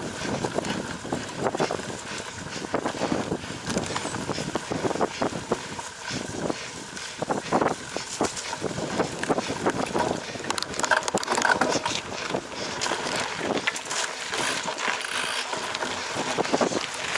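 Cyclocross bike ridden over rough ground, with wind rushing on the microphone and a dense, continuous rattle of clicks and knocks from the bike.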